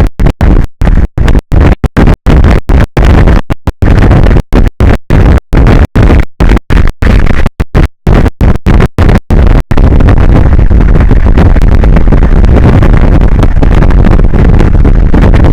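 Loud, clipped rushing noise of wind buffeting an outdoor microphone. The sound breaks up with many brief dropouts, then becomes continuous about ten seconds in.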